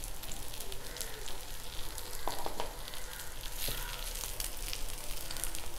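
Dry-fried beef perattu sizzling in a pan while a wooden spatula stirs it, with scattered crackles and a few light knocks.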